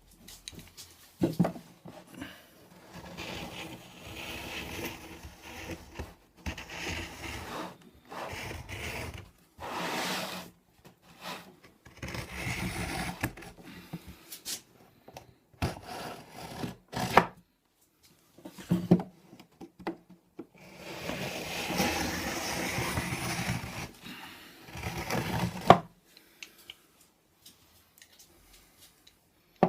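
Hand tool working wood: stretches of rubbing and scraping on wood lasting from a second to several seconds, broken by short pauses and a few sharp knocks.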